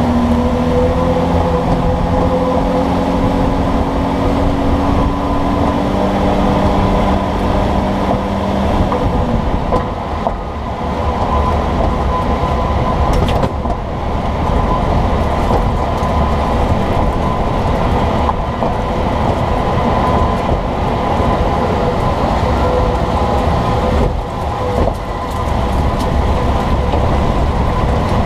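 Road and running-gear noise of a moving vehicle heard from beside its leaf spring and sway bar: a continuous rumble with a steady hum that stops about nine seconds in, and a sharp knock about thirteen seconds in, the kind of suspension clunk being hunted for.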